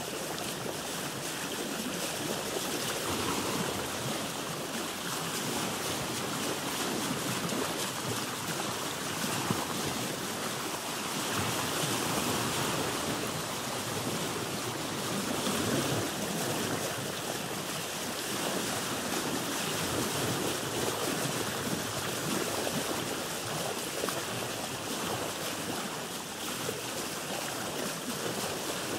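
Sea water sloshing and lapping against a boat's hull, a steady wash that swells and eases every few seconds.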